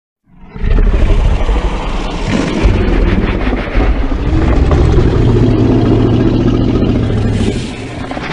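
A custom kaiju monster sound effect: a loud, sustained, noisy roar-like sound with a low drone underneath. It comes in sharply after a moment of silence, holds for about seven seconds and eases off near the end.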